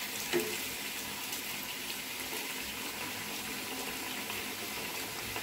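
Sel roti, a ring of rice-flour batter, deep-frying in hot oil in a small pan: a steady sizzling hiss. One brief louder sound comes about half a second in.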